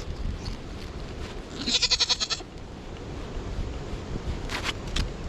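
A Nigerian Dwarf goat bleats once, a short wavering call about two seconds in, over a low wind rumble.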